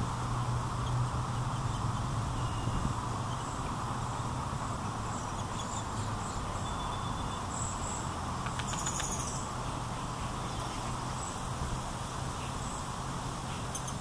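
Steady outdoor background hum and rush, with a few faint, short high-pitched bird chirps between about five and nine seconds in and a brief cluster of clicks about nine seconds in.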